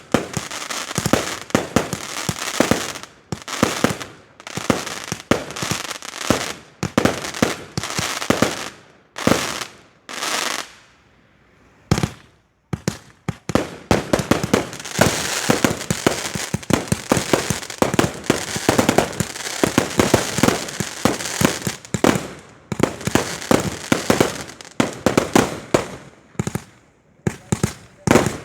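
Firework display: rapid bangs and crackling shells going off in quick succession, a brief lull about ten seconds in broken by a single sharp bang, then a dense barrage of crackling bursts.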